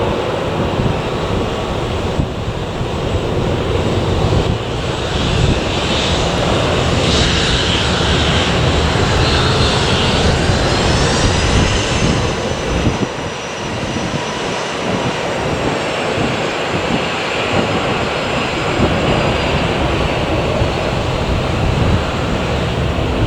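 Jet airliner engines passing, a steady rushing noise with a high whine that bends in pitch around the middle. Wind buffets the microphone throughout.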